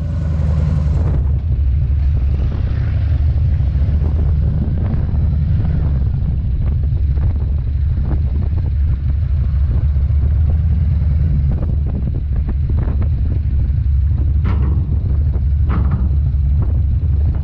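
Harley-Davidson motorcycle's V-twin engine, heard from the rider's seat, running steadily at idle and low speed. A few short knocks come near the end.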